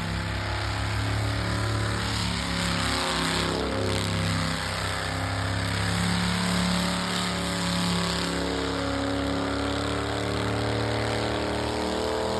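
Vehicle engines running at a motorsport event, with more than one engine note whose pitch drifts slowly up and down, rising near the end.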